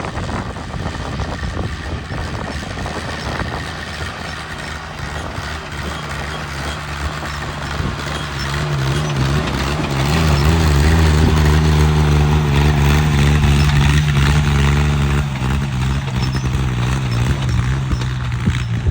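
Mini tractor's engine running, then revving up about halfway through. It holds a loud, steady note for several seconds and eases off near the end.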